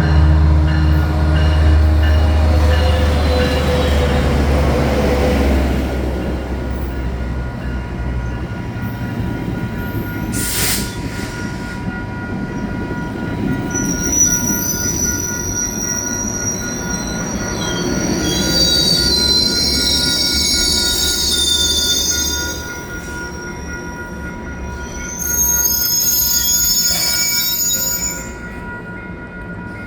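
Metrolink commuter train slowing into a station: the diesel locomotive's engine drones as it passes, then high-pitched, wavering wheel and brake squeal sets in about halfway through and stops suddenly near the end as the train comes to a halt.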